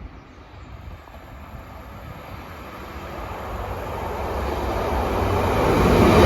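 Northern Class 156 diesel multiple unit approaching to pass through the station, its engine and wheel rumble growing steadily louder. A thin high steady tone comes in about a second in.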